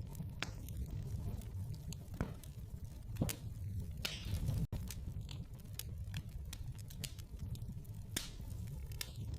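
Wood fire crackling in a fireplace: irregular sharp pops and snaps over a low steady rumble of the flames, with a brief sudden break in the sound about halfway through.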